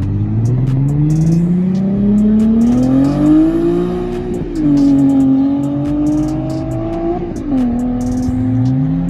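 A car's engine accelerating hard, its pitch climbing and then dropping at two upshifts, about four seconds in and again about seven and a half seconds in.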